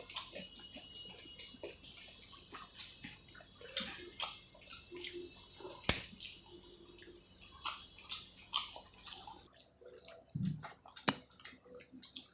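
Wet eating sounds of rice with dal and curries: an irregular run of short squelches, smacks and clicks, the loudest a sharp smack about six seconds in.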